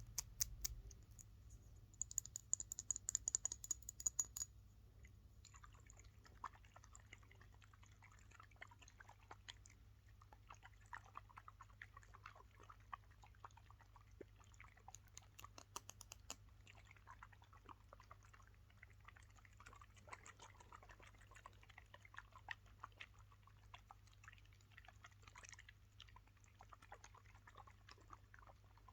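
Quick, sharp tapping on a hard object for a couple of seconds, then fast, continuous scratching, with a second short burst of tapping about halfway through.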